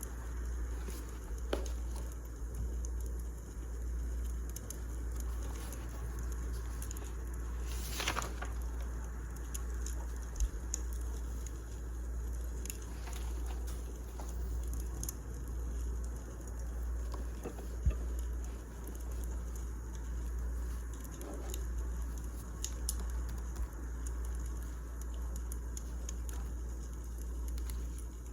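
Wood fire crackling, with scattered small pops over a steady low rumble and a few louder snaps.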